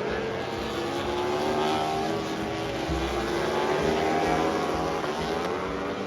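Racing motorcycle engines at high revs passing on the circuit, their pitch sliding down and climbing again as the bikes go by and change gear, several overlapping at once.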